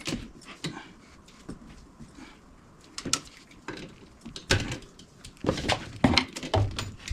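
Irregular clicks and knocks of small hard objects being handled, coming thicker in the second half with a few dull thumps.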